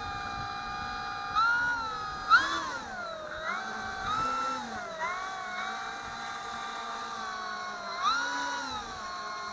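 Electric motor and propeller of an E-flite P-47 radio-control plane whining, the throttle opened and eased off several times so the pitch rises and falls in surges. The plane is trying to taxi through grass and is struggling to move.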